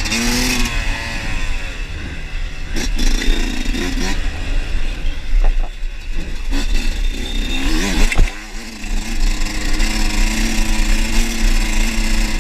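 Off-road trail motorcycle engine revving up and down repeatedly as it rides over rough ground, with knocks and clatter. Near the end the engine settles to a steadier pitch, over a heavy low rumble throughout.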